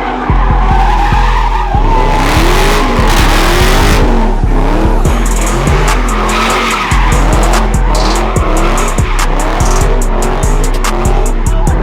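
Car tires squealing with an engine running hard, as in a burnout, mixed with loud music that has a deep bass line and a regular beat.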